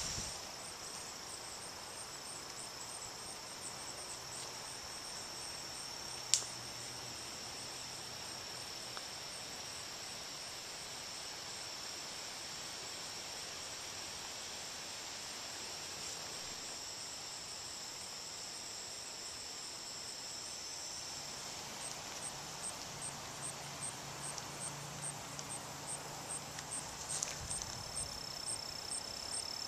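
Insects trilling: a steady high-pitched drone, with a faster run of high, evenly pulsed chirps, about two to three a second, in the last third. A single sharp click about six seconds in.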